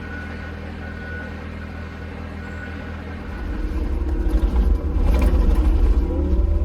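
An engine idling steadily, then revving up a little over three seconds in: louder, with a rising whine over the rumble.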